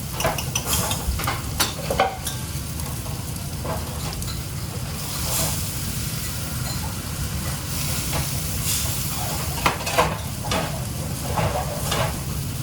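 Food sizzling as it fries in a commercial kitchen, with utensils clicking and knocking against pans now and then over a steady low hum.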